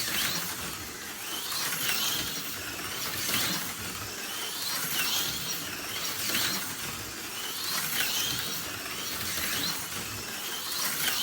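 HO-scale Tomy Super G Plus slot car running fast laps, its small electric motor whining with a mechanical rattle along the track. The sound swells as the car passes, about once every second and a half.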